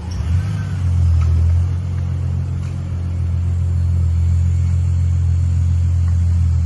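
Engine of a 2005 Ford Mustang, a freshly installed remanufactured unit, running steadily on a test drive with a low, even rumble.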